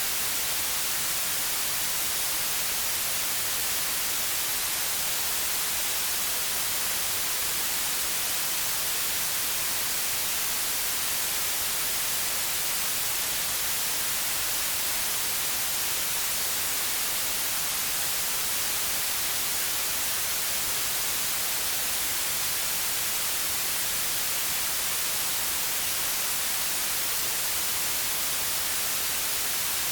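Synthetic white noise: a steady, unbroken hiss, brightest in the high frequencies, with no change in level.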